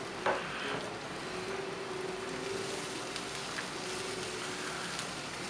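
Potatoes, carrots, onions and mushrooms frying in pork fat in a hot cast-iron skillet: a steady sizzle as a wooden spatula stirs them, with a light knock about a quarter second in and a few faint clicks.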